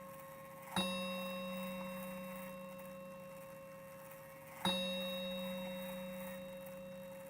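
Soviet Yantar mantel clock striking the hour: two slow strikes about four seconds apart, each ringing on and slowly fading.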